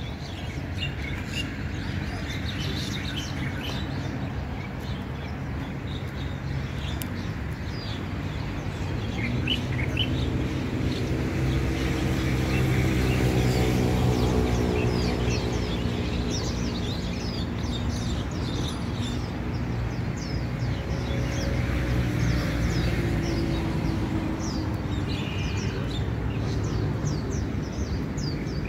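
Small birds chirping, with many short, high calls throughout. Under them a low hum grows louder to a peak about halfway through, then eases.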